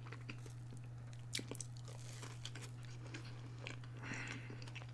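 Close-miked eating: biting and chewing a breaded chicken strip, with short crunches and wet mouth clicks, a louder crunch about a second and a half in. A steady low hum sits underneath.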